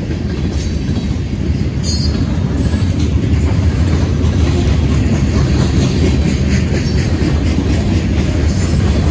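Freight train rolling past close by: a steady heavy rumble of wheels on rail, with a brief high squeal about two seconds in.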